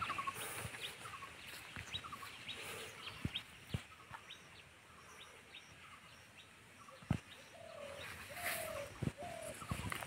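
Faint bird calls: a string of short, high chirps, and a few short clucking notes a little after halfway. A few soft knocks are heard as well.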